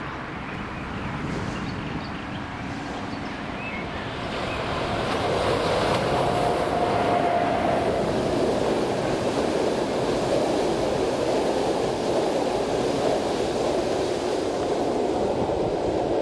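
Electric locomotive-hauled passenger express train approaching and passing below: the rail and wheel noise builds over the first few seconds into a steady rumble as the coaches run by. A brief high whine sounds about six seconds in.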